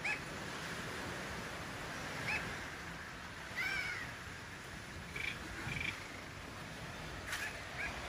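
Birds calling: short arched chirps every second or so, with one longer, fuller call near the middle, over a steady background hiss.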